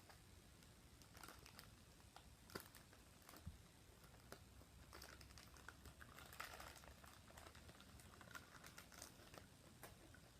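Faint, scattered clicks and rustles of small toy packaging being handled and opened by hand.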